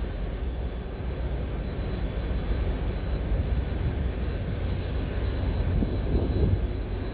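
Twin turbofan engines of a Kawasaki T-4 jet trainer running on the runway: a steady rumble with a thin, even high whine.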